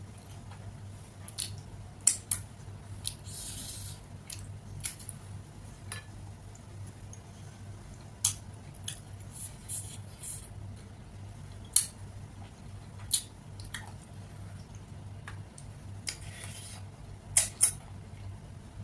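Close-miked eating sounds: a person chewing rice and rajma eaten by hand, with a crisp fried 'colorful fingers' snack, giving scattered sharp crunches and mouth clicks, a couple of short crunching runs, over a steady low hum.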